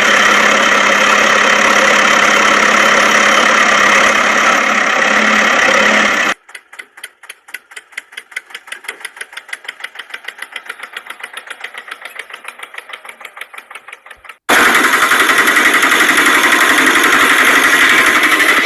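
Small motor of a toy vehicle running loudly and steadily. About six seconds in it cuts off abruptly and gives way to a fainter, rapid clicking of about seven ticks a second. A few seconds before the end the loud motor sound starts again abruptly.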